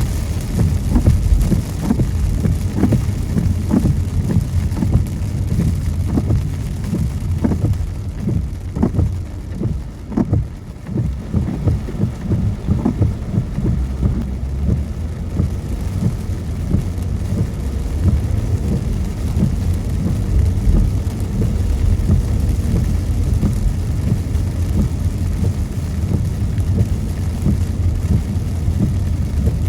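Steady low rumble of a car driving on wet road, with rain tapping on the windshield and roof, the taps thickest in the first half.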